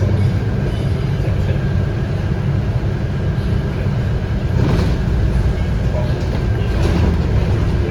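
Cabin sound of a Scania K230UB bus under way, its 8.9-litre five-cylinder DC9 diesel running with a steady low drone, with a couple of brief rattles about five and seven seconds in.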